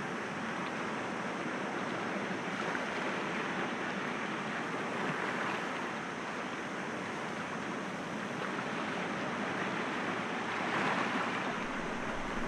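Sea waves breaking gently against rocks: a steady wash of surf that swells a little about five seconds in and again near the end.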